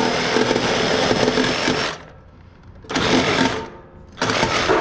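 Power drill with a nut-driver bit running in bursts, backing screws out of sheet-metal scrap: one long run that stops about two seconds in, then two short bursts.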